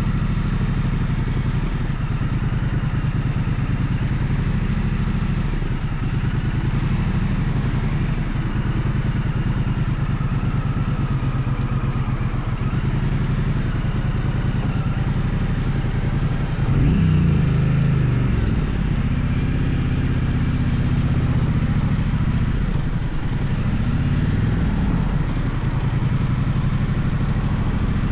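Gaokin GK1200 motorcycle engine running under way, loud and steady. Its pitch drops sharply a little over halfway through, then rises and falls again a few seconds later.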